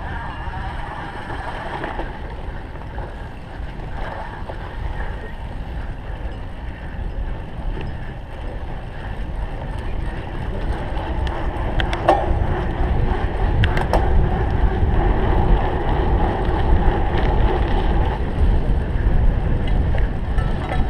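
Wind rushing over the microphone of a camera riding along on a cyclocross bike during a race, mixed with tyre and drivetrain noise on the rough course, growing louder about halfway through. Two sharp knocks come a little past halfway, about two seconds apart.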